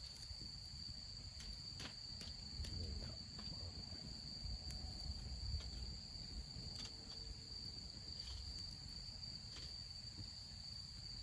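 Crickets singing in a steady, unbroken high-pitched chorus, with scattered faint clicks and a low rumble beneath.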